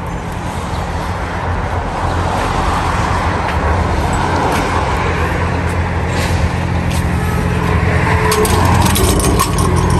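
Car engine idling steadily, growing slightly louder. Near the end, a metal wire-mesh garden gate rattles and clicks as it is pulled shut.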